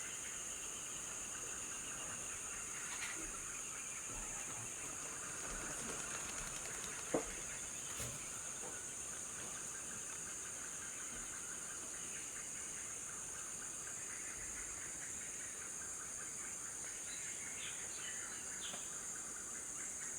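Steady high, shrill insect chorus of the African rainforest, with a few faint bird chirps near the end. A single short, sharp sound stands out about seven seconds in, with a weaker one a second later.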